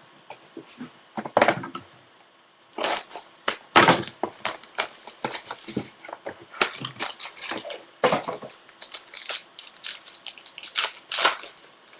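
Plastic wrapping crinkling and tearing in irregular crackly bursts as a sealed trading-card pack is opened and handled.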